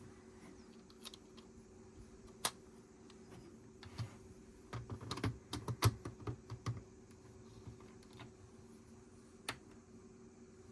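Plastic Lego pieces clicking and rattling as they are handled and pressed together: a few separate clicks, with a quick flurry of clicks in the middle.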